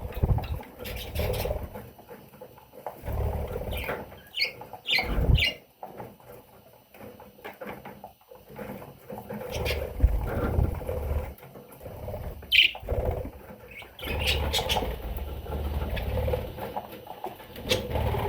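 Baby budgerigars making short, high chirps in scattered clusters, several together a few seconds in and a couple more later, over low rumbling and thumping from the birds moving about.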